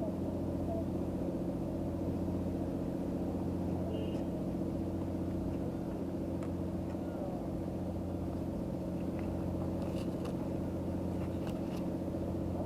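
An engine running steadily at idle: an even low drone that holds its pitch throughout, with a few faint clicks in the second half.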